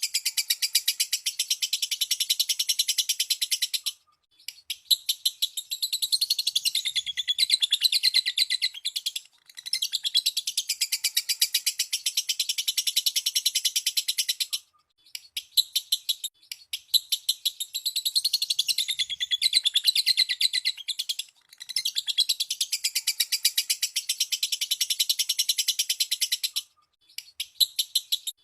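Lovebird chattering in long, rapid, high-pitched trills (the 'ngekek' song), in runs of about five seconds broken by brief pauses.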